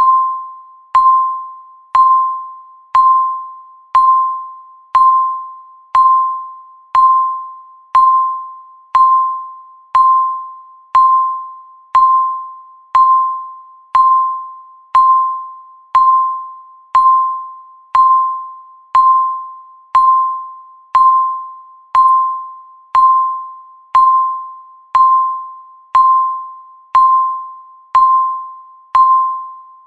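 Countdown timer ticking: one short, pitched electronic tick every second, each ringing out briefly before the next, steady and even.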